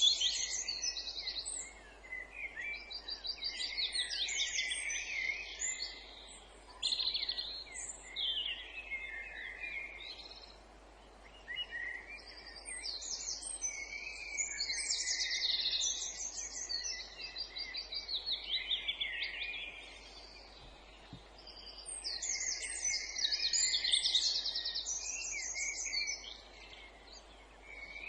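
Woodland songbirds singing in bouts of fast trills and warbled phrases, several at once, with short lulls between bouts.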